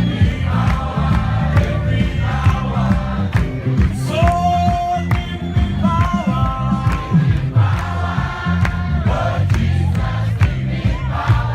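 A group of voices singing together in phrases over a steady beat of percussive hits.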